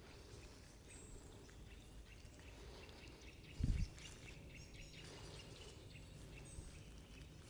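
Faint forest ambience: small birds chirping and whistling over a low rumble, with one brief low thump about halfway through.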